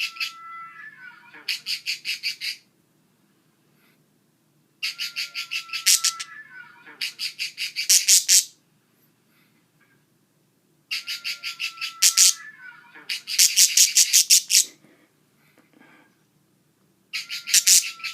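Budgerigar repeating the same call phrase about every six seconds: a fast run of buzzy, rasping pulses with a short held whistle, then a second run of pulses, and silent pauses between phrases.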